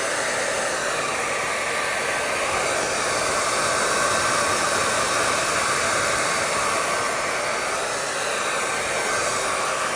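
Hair dryer running steadily: an even rush of blown air with a faint high whine held on one pitch.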